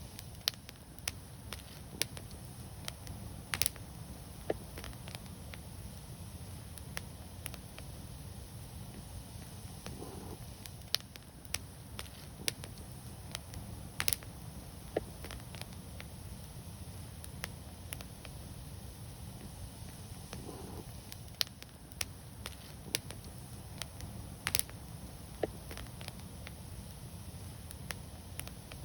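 Wood fire burning, with scattered sharp crackles and pops at uneven intervals over a steady low rumble.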